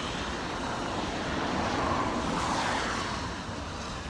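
A car passing on a wet road: its tyre hiss swells to a peak about two seconds in and then fades, over steady outdoor noise.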